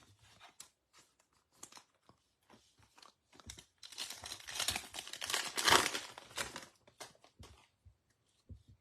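A foil trading-card pack wrapper being torn open and crinkled, with light handling clicks and rustles before it. The tearing and crinkling run for about three seconds in the middle, loudest near the end of that stretch.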